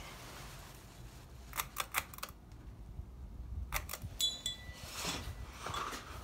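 Ceiling fan's pull-chain speed switch being pulled: a quick run of clicks and chain rattle about one and a half seconds in, and more clicks near the middle, over the fan motor's low steady hum.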